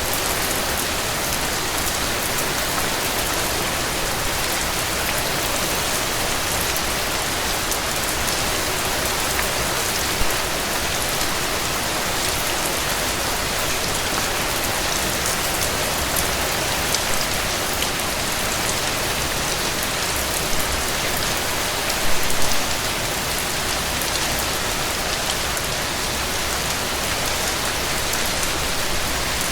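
Heavy rain falling steadily on a cabin porch, an even hiss of dense drops. A few brief louder snaps stand out, about ten seconds in and again around twenty-two seconds.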